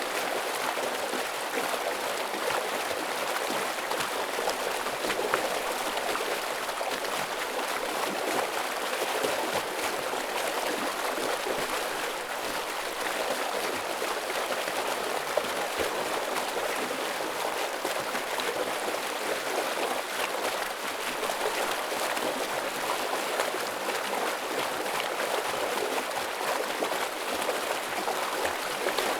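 Heavy water stream flowing: a steady, unbroken rush of splashing water that stays even throughout.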